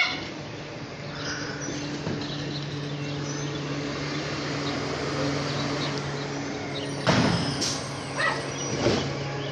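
Garbage truck engine running with a steady hum, with a short loud noise about seven seconds in and another near nine seconds.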